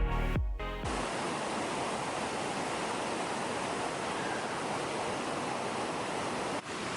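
Electronic background music cuts off about a second in, giving way to the steady rush of a waterfall.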